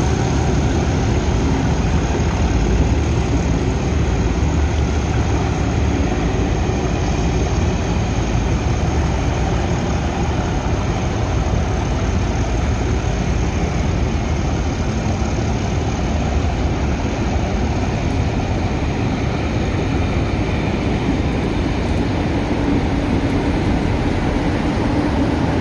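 Diesel-hauled train of passenger coaches moving slowly past, with a steady diesel locomotive engine drone and the coaches' wheels rolling on the rails.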